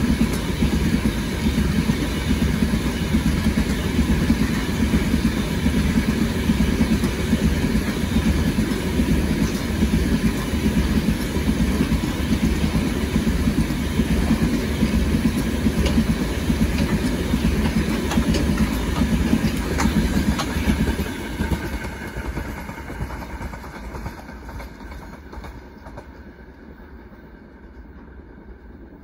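Steady vehicle running noise, strongest in the low range, that fades away over the last several seconds.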